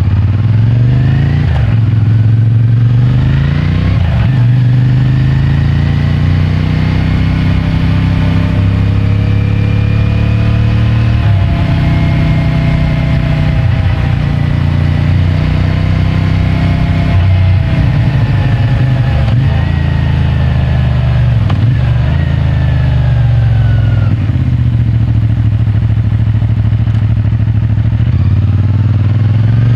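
CFMOTO 450MT's parallel-twin engine with stock exhaust, pulling through the gears: the revs climb and drop back at several upshifts over the first twenty seconds or so, fall away as the bike slows, and begin climbing again near the end.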